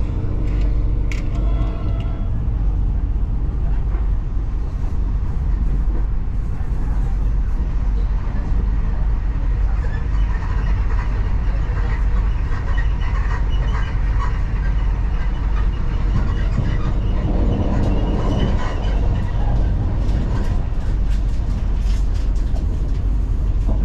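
Regional passenger train heard from inside the carriage: a steady low rumble of the train running, with a few steady tones that fade out about two seconds in. Indistinct passenger voices come in faintly over the rumble in the second half.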